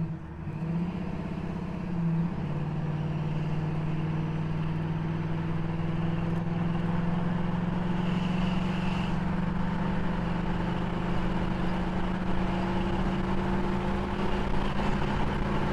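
Car engine pulling under steady load while driving, with road noise. Its note changes about two seconds in, then holds and climbs slowly as the car gathers speed.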